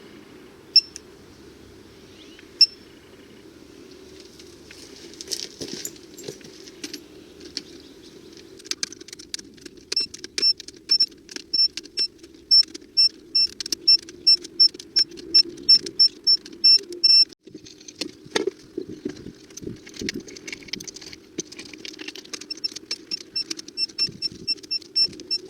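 Digital torque wrench in use: two single electronic beeps early on, then clicking with a rapid high beep repeating about twice a second while the wrench is worked on the wheel nuts, stopping for a few seconds and then starting again. The repeating beep is the wrench's torque signal.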